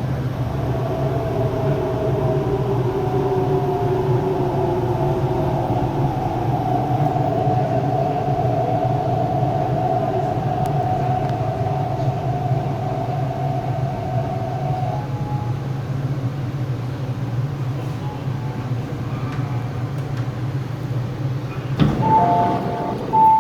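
Interior of a Hyundai Rotem R-Train electric multiple unit on the East Rail Line, running with a steady rumble and the whine of its traction motors. The whine rises slightly at first, then holds and fades out about two-thirds of the way through. Near the end a short two-note chime sounds.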